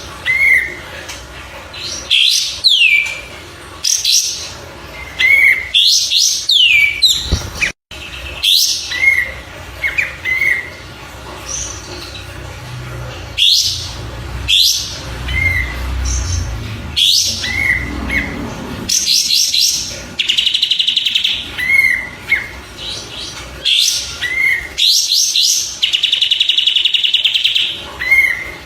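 Songbird song for masteran tutoring: repeated short whistled notes and high calls that sweep downward, with two long, rapid buzzy trills in the second half. A low rumble sits behind it in the middle stretch.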